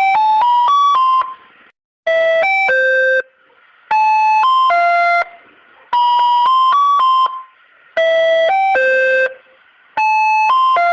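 Wall's ice cream street-cart jingle: a short electronic chime melody of quick notes, repeating about every two seconds with brief pauses between phrases.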